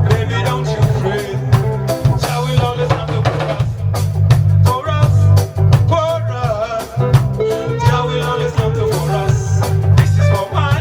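Reggae band playing a lovers rock song, with a heavy bass line, drum kit on a steady beat and a sung melody over it.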